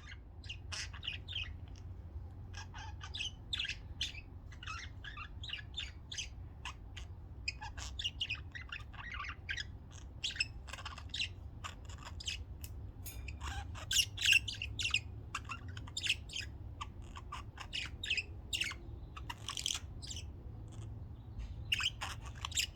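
Budgerigars chattering: a steady stream of short chirps, warbles and squawks from several birds.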